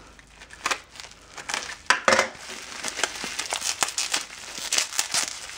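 Plastic packaging crinkling and crackling as it is handled, in an irregular run of crackles with a louder burst about two seconds in.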